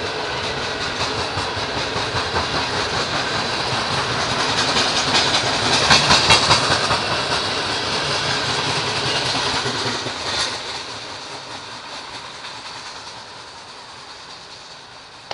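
Loaded taconite ore hopper cars rolling past, steel wheels clacking rhythmically over the rails. The sound is loudest about six seconds in, then fades after about ten seconds as the tail of the train passes and moves away.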